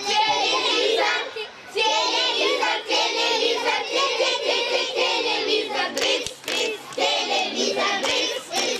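A group of children singing a short song together in phrases, with a few short clicks about six seconds in.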